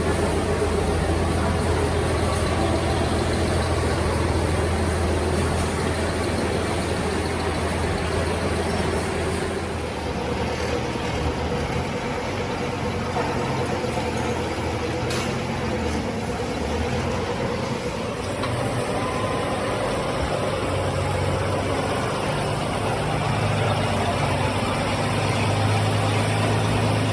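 Caterpillar 426F2 backhoe loader's diesel engine running steadily, its low note shifting about ten seconds in and growing louder near the end.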